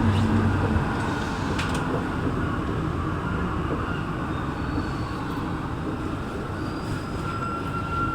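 Santiago Metro NS-16 train running, heard from inside the car: a steady rolling rumble, with a low hum that fades out about a second in and a steady high-pitched squeal rising in near the end.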